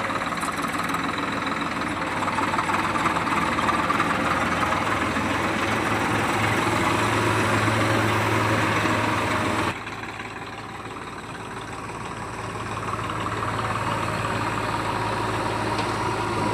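Heavy diesel engine running steadily. About ten seconds in the sound drops suddenly to a quieter level, then grows louder again over the next few seconds.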